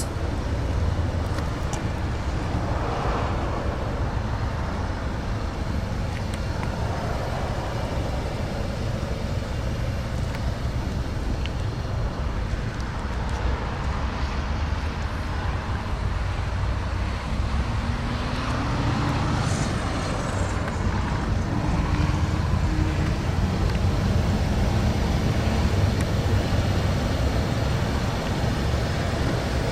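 Steady low rumble of cars and traffic, growing a little louder in the second half.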